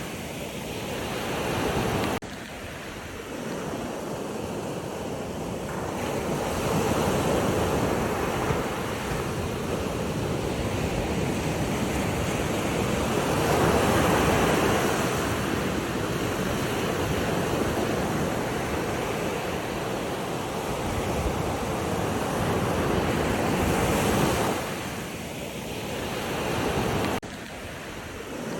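Ocean waves breaking and washing on a shore in a continuous rush that swells and eases every several seconds, with abrupt drops in level about two seconds in and again near the end.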